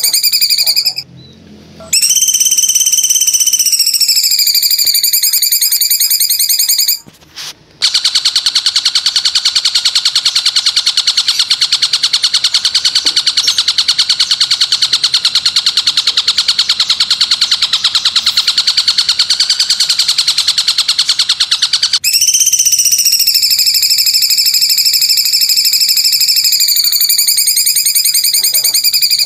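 Shrill, high bird calls on a songbird tutor recording: two pitched, rapidly trilled calls in the first few seconds, then a long, fast, buzzing trill lasting about fourteen seconds, then the pitched trill again near the end.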